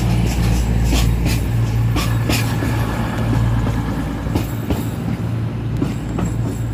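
Class 222 Meridian diesel-electric multiple unit running with a steady low hum from its underfloor diesel engines, with scattered sharp clicks from the wheels on the track as it draws into the platform.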